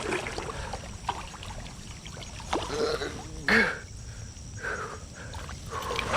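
Creek water splashing and sloshing as a big brown trout is fought toward the net, with the louder splashes coming irregularly, the biggest about halfway through, over the creek's steady flow.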